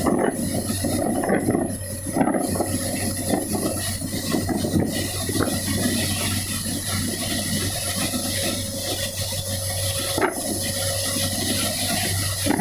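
Heavy rain and strong wind making a steady, fluctuating rushing noise, with a constant low hum underneath.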